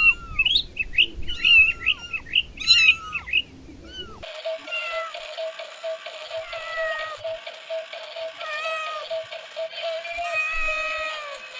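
Kitten mewing: rapid, high, arching mews. About four seconds in, the sound cuts abruptly to a thinner stretch with a steady tone and slower, drawn-out falling calls.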